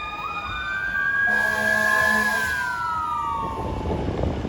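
Fire engine siren wailing: the pitch rises, holds, then falls away toward the end. About a second in, a lower steady blare joins it for just over a second, over the rumble of the moving truck.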